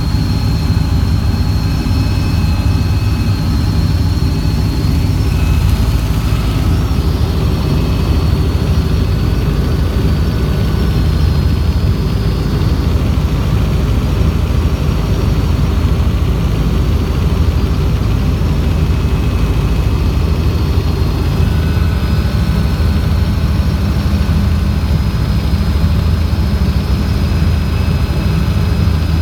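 Helicopter in flight: steady, loud rotor and turbine engine noise, heavy in the low end, with a faint high whine above it.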